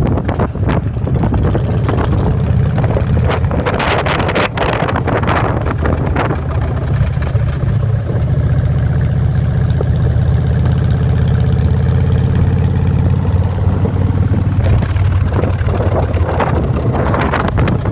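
Motorcycle engine running steadily under way, a low rumble, with wind buffeting the microphone in gusts, strongest about four to six seconds in and again near the end.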